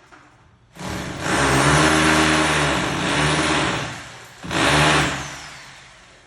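Power drill running into the wall in two bursts: a sharp start, about three seconds of steady drilling, a brief pause, then a second short burst that winds down.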